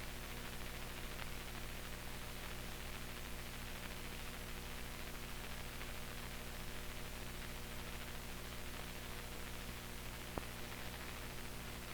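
Steady hiss and low electrical hum of a soundless stretch of an old film transfer, with one faint click about ten seconds in.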